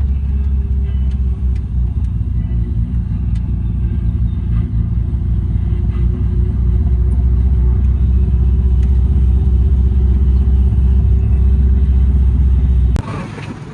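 Car running with a heavy, steady low rumble that grows slightly louder about halfway through, then cuts off abruptly near the end.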